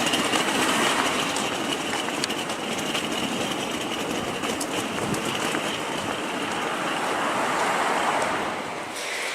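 Train running past, a loud steady rumble with a thin high whine over it, swelling twice and easing off near the end.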